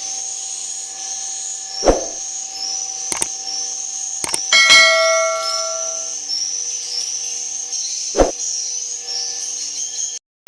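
Swiftlets chirping in a swiftlet house: high, short chirps repeating evenly, a little more than once a second. A few sharp knocks sound, about 2 s in and again near 8 s, and about midway a metallic clang rings on for about a second and a half.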